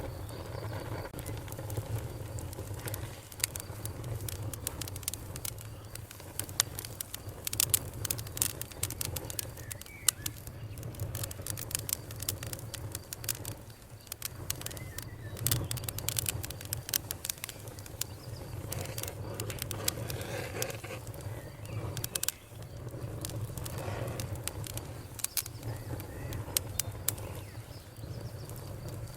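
Campfire crackling, with frequent sharp snaps and pops from the burning wood over a steady low rumble of the flames.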